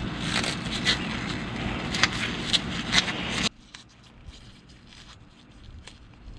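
Hands working a plastic heat-shield cover onto an ignition part: a scratchy scraping and rustling with sharp clicks, which cuts off abruptly about three and a half seconds in. After that only faint small clicks are left.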